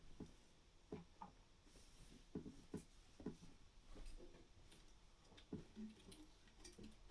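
Faint, irregular clicks and taps of a parrot's beak and feet working on a wooden branch perch.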